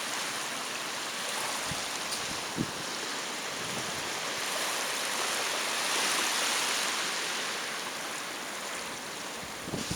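Pacific Ocean surf washing onto the beach: a steady hiss that swells about halfway through and then eases off.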